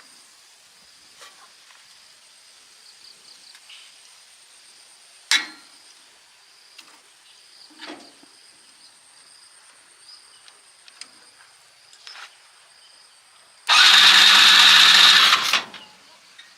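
A few light clicks and one sharp knock, then, near the end, about two seconds of loud cranking as the tricycle's engine is turned over to start with its newly fitted carburettor, stopping abruptly.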